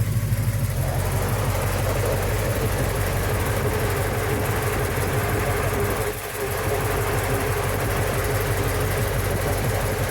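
Rebuilt Chevy 396 big-block V8 idling steadily, with a brief dip in level about six seconds in.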